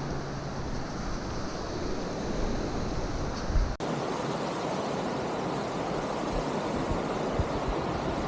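Waterfall roaring: a steady rushing of falling water, with a brief break about halfway through where the noise cuts out for an instant and resumes.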